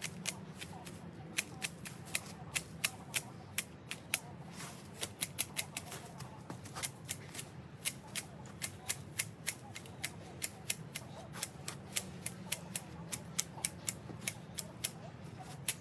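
Hand hedge shears snipping a hedge: sharp, irregular cuts, a few a second, over a steady low hum.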